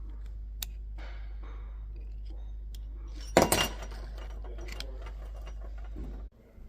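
Metal engine parts clinking as they are handled, with a loud short clatter about three and a half seconds in, over a steady low hum.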